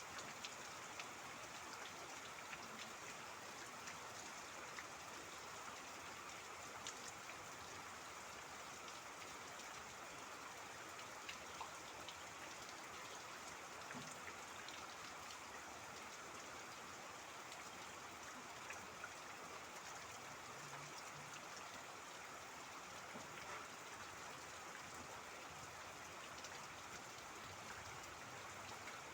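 Steady rain with scattered sharper drop ticks.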